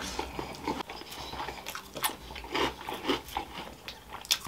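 Chewing and biting into crunchy finger crisps, with irregular crisp crunches.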